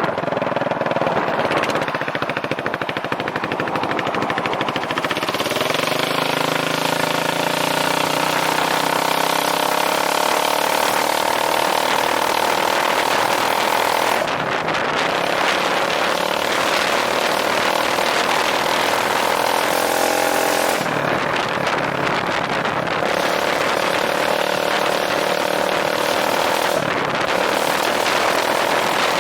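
2009 Yamaha Majesty 400 scooter's single-cylinder engine running through a straight pipe, its exhaust note rising as the throttle opens about six seconds in, then dipping and picking up again several times with throttle changes.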